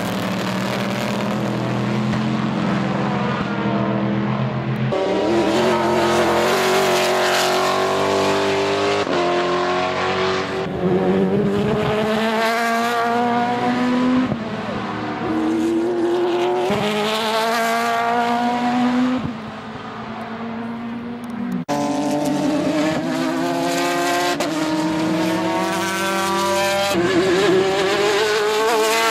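Race car engines accelerating hard, one car after another, each engine rising in pitch through the gears and dropping at each upshift.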